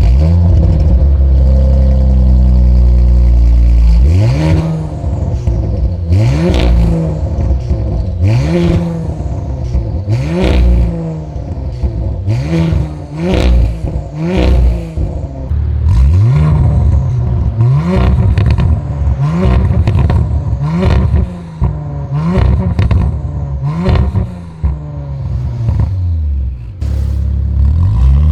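Audi RS4 B9.5's 2.9-litre twin-turbo V6 through a titanium aftermarket exhaust: a steady engine note for about four seconds, then a dozen or so quick throttle blips, each a short rise and fall in revs followed by crackles on the overrun. Near the end the revs start climbing steadily.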